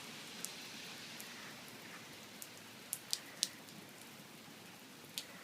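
Heavy rain falling steadily, with scattered sharp ticks of single drops, three of them close together about three seconds in.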